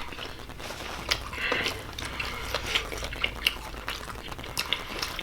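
Scattered small clicks and wet squishing of seafood being handled and dipped in sauce and eaten, over a low steady hum.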